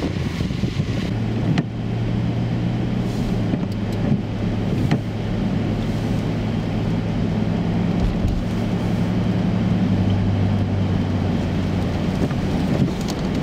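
Car engine running with a steady low drone under road noise, its pitch shifting slightly a few times, with a couple of faint clicks.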